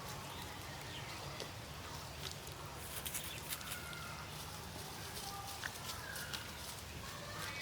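Outdoor farmyard ambience: short chirping bird or fowl calls from about three seconds in, over a low steady hum and faint scattered ticks.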